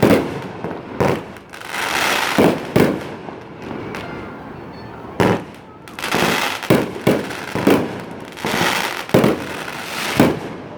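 Aerial fireworks display: about ten sharp shell bursts go off irregularly, a few close together, with stretches of hissing crackle lasting about a second after several of them.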